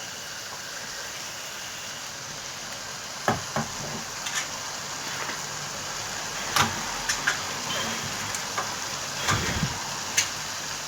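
Curry sauce sizzling in a saucepan, with scattered clicks and knocks of a utensil against the pan.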